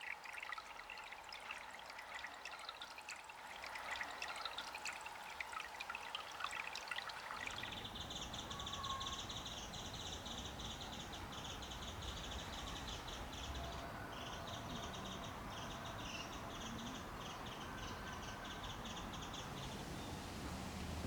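Spring water trickling and dripping, with many small sharp drips for the first seven seconds or so. After an abrupt change it becomes a steadier running-water sound with a high, rhythmic chirring on top, which breaks off briefly about halfway through.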